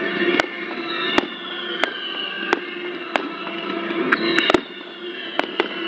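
Fireworks display: a run of sharp bangs about once a second, several close together a little past the middle, over falling whistles from the rising shells.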